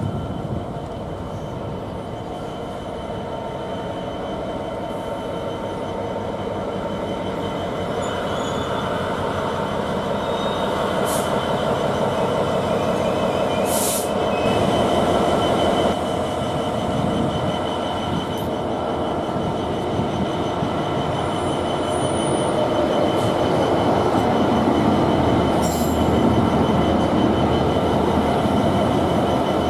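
GB Railfreight Class 66 diesel locomotive with its two-stroke EMD V12 engine, hauling a long train of hopper wagons slowly past, growing gradually louder as it draws level. Wheels and wagons rumble, with a steady high squeal over them and a few short hisses.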